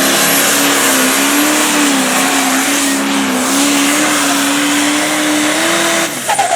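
Turbocharged diesel pulling tractor running at full throttle under load during a pull, its steady engine pitch wavering slightly. The sound cuts off abruptly about six seconds in.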